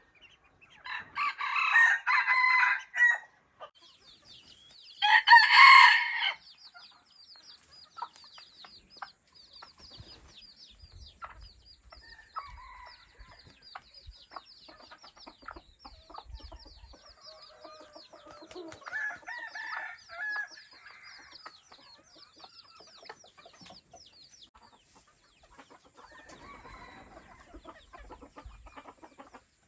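Hybrid junglefowl rooster crowing twice in the first few seconds, the second crow shorter and louder. Fainter chicken clucking follows now and then, over a faint high, fast-ticking trill.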